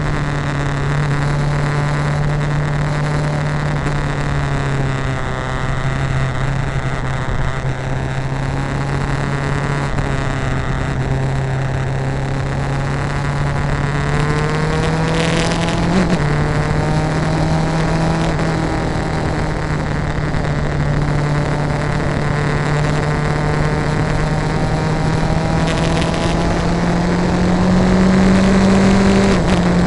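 A vehicle engine running steadily under way, its pitch creeping slowly upward and then dropping suddenly twice, once about halfway through and once near the end, as at gear changes.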